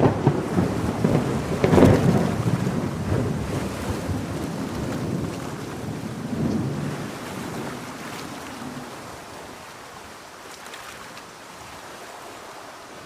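Thunder rumbling loudly about two seconds in, then rolling away and fading over several seconds, over steady rain.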